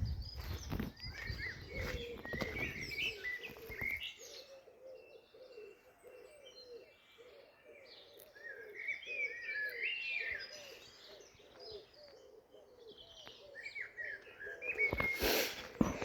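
Songbirds singing, with a pigeon cooing in a steady repeated series of low notes from a few seconds in. A low rumble comes in the first few seconds, and a brief loud rush near the end.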